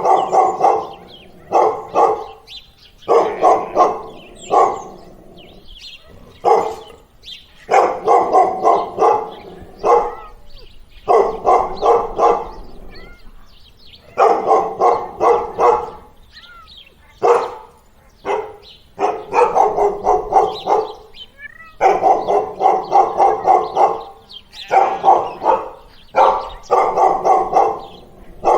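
A dog barking in repeated bouts of quick barks, with short pauses between the bouts.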